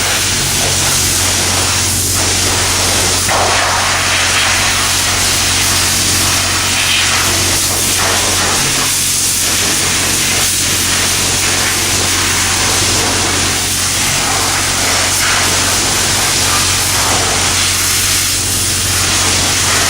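High-pressure wand at a self-serve car wash spraying water in a steady hiss, with a steady low hum beneath.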